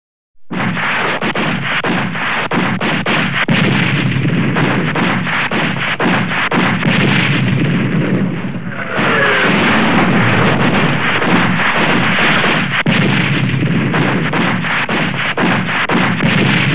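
Dubbed-in battle sound effect: a dense, unbroken run of rapid gunshots and bangs that starts abruptly about half a second in, dips briefly a little past the middle, then carries on.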